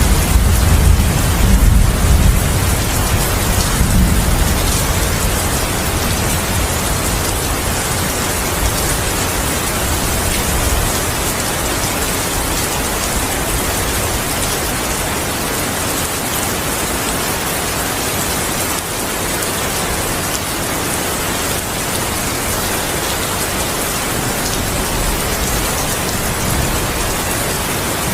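Steady heavy rain falling, with a low rumble of thunder in the first few seconds that dies away.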